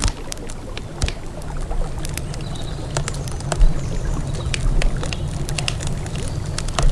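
Wood campfire crackling, with irregular sharp pops and one louder pop about three and a half seconds in, over a steady low rumble.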